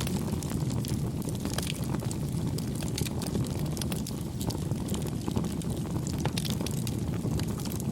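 Wood campfire burning: a steady low rumble with frequent irregular crackles and pops.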